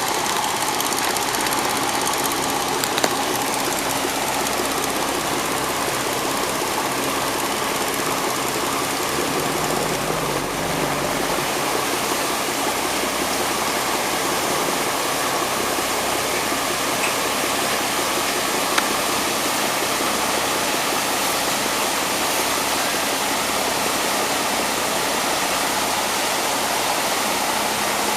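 Steady rushing noise with a faint engine hum underneath, consistent with a small boat under way.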